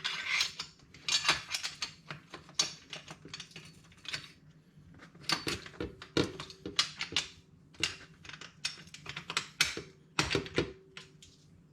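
Irregular metal clinks and taps, sometimes several in quick succession, as exhaust pipe sections and their clamp are handled and worked loose by hand.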